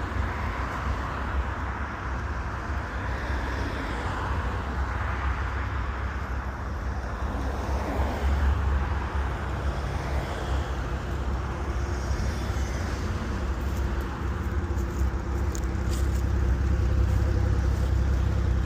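Car engines running and idling, a steady low rumble of vehicles, with one engine's even hum coming through more clearly over the last few seconds.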